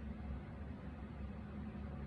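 Steady low hum with an even background hiss: room tone, with no distinct clicks or knocks.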